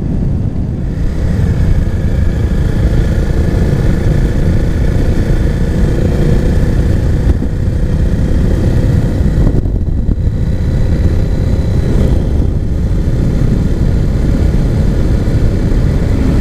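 Husqvarna Svartpilen 401's single-cylinder engine running through an aftermarket Arrow exhaust while the motorcycle is ridden, a deep, steady exhaust note. The upper part of the sound dips briefly about ten seconds in.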